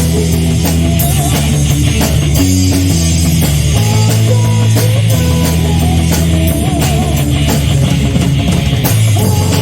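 A rock band playing live in an instrumental passage: a sustained, sliding lead guitar line over bass and drums. It is recorded through a phone's microphone, so the sound is somewhat degraded.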